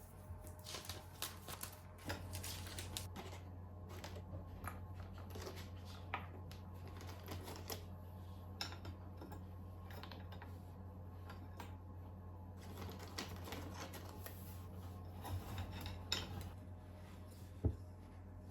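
Rapid light clicks and taps of small objects being handled, over a steady low hum, with one sharper tap near the end.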